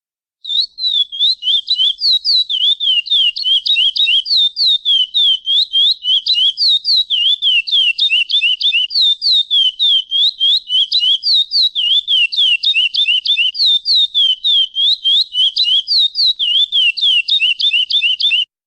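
Curió (chestnut-bellied seed finch) giving a long, rapid run of clear, high whistled notes, several a second, each a quick slurred chirp, keeping on steadily for about eighteen seconds before stopping abruptly.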